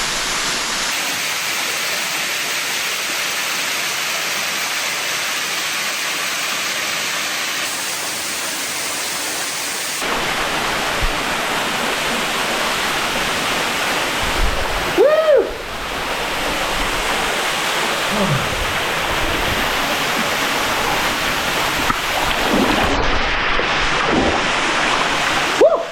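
Steady rushing of a waterfall and its stream, its tone shifting abruptly about a second in and again about ten seconds in. A brief rising-and-falling call sounds over it about fifteen seconds in.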